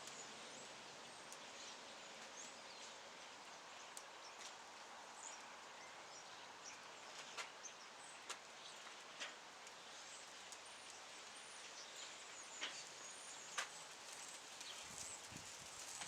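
Wood campfire crackling: sharp, irregular pops every second or few over a faint, steady hiss.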